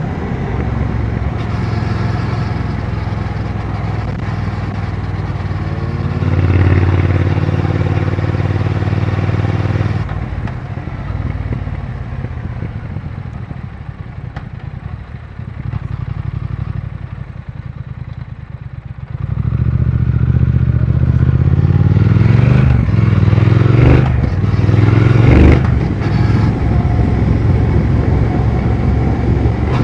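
Triumph Speed Twin 1200 parallel-twin engine and exhaust under way on the road. Revs rise briefly about six seconds in, the sound drops back to quieter running for some ten seconds, then the engine pulls harder and louder from about nineteen seconds in.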